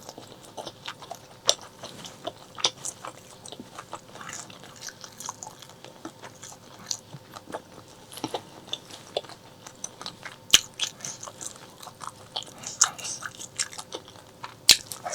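Close-miked eating of braised pork leg: chewing and biting with many small wet mouth clicks and smacks at an irregular pace.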